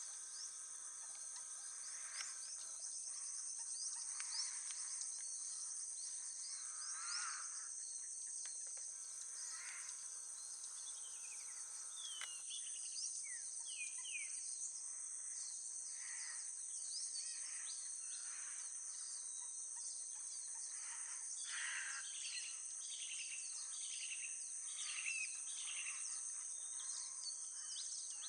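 Insects droning steadily at a high pitch, with many birds calling over them. The birdsong includes runs of repeated downward-sliding notes, about a dozen seconds in and again past twenty seconds.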